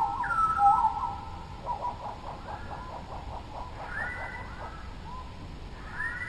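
Songbirds singing: a whistled phrase repeated several times, then a fast run of short notes from about a second and a half in, and a few longer whistled notes near the end.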